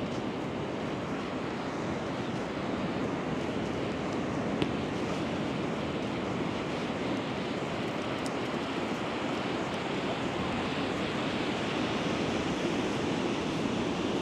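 Sea surf washing steadily onto a sandy beach, with wind buffeting the microphone. A single sharp click comes about four and a half seconds in.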